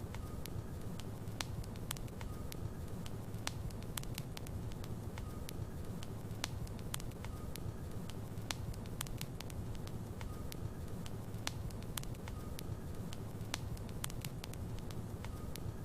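Logs burning in a fireplace: a steady low rumble of the flames with frequent, irregular sharp crackles.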